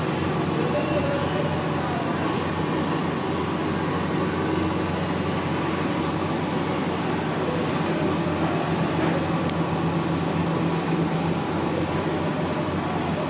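Steady hum of a running machine, with a constant low drone and no change in level.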